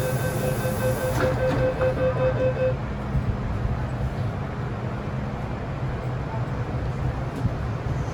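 MTR M-train door-closing warning: a rapid series of high beeps with a hiss of air for about the first three seconds, over the train's steady low rumble. The beeps stop near three seconds in, leaving the rumble.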